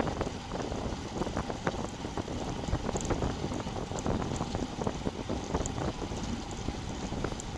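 Wind buffeting a bike-mounted action camera's microphone while riding, a continuous low rumbling rush with scattered small clicks and ticks from the bike and road.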